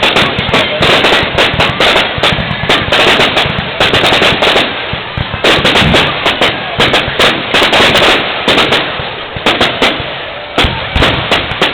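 Fireworks display going off: a dense, rapid run of bangs and crackles overlapping one another, with a slightly thinner stretch around five seconds in and again near the end.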